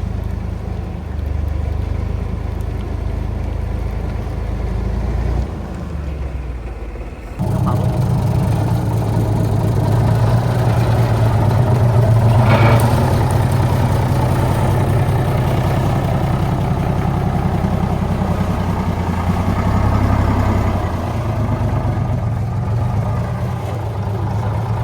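A 1975 truck's engine running under load, quieter and lower for a few seconds, then picking up sharply about seven seconds in and pulling steadily at higher revs.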